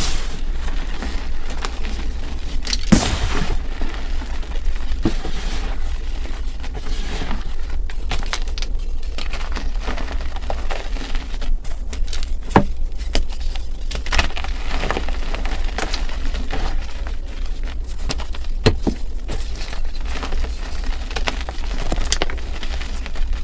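Pink and yellow chalk slabs being crushed and crumbled, giving a continuous dry crackling with scattered sharp cracks, the loudest about three seconds in, over a steady low hum.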